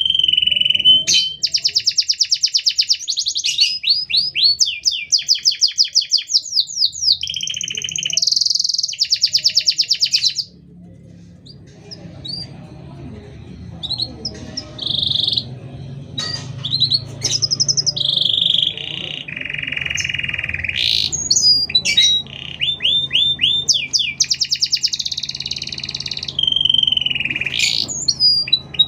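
Domestic canary singing a long, busy song of rapid trills and fast repeated notes with only short pauses. The song breaks off for about a second near the middle, and a faint low hum runs under the second half.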